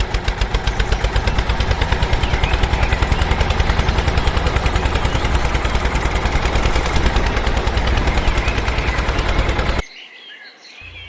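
A small engine running, a rapid, even putter with heavy low thumping, which stops suddenly near the end.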